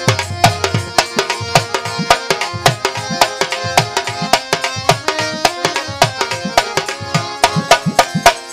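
Instrumental interlude of a Bengali qawwali: quick, busy tabla strokes under a held, sustained melody line, with no singing.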